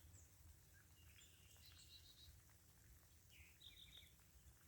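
Near silence: faint outdoor ambience of light rain, with a few faint, short bird chirps, one group about a second in and another about three and a half seconds in.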